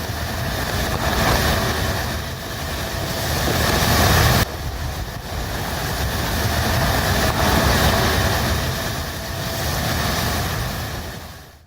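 Strong wind gusting with rain: a heavy low rumble of wind buffeting the microphone over a hiss, surging and easing. It breaks off abruptly about four seconds in and dies away near the end.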